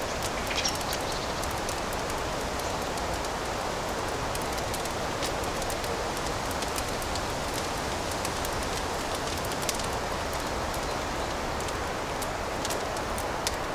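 Fireplace fire crackling: a steady hiss with frequent small pops and snaps scattered throughout.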